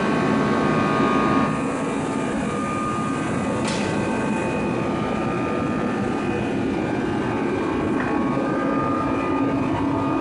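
Light single-engine airplane's piston engine and propeller running with a steady drone, with a brief click about a third of the way in.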